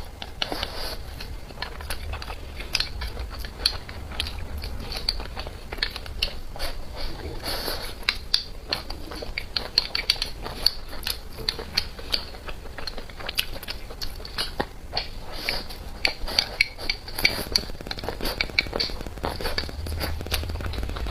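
Close-miked eating sounds: a person chewing and biting, with many quick, irregular mouth clicks and smacks.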